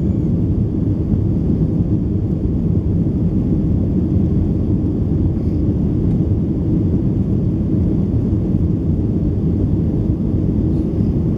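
Steady low rumble inside the cabin of a Boeing 737-800 in flight: its CFM56-7B engines and the airflow over the fuselage.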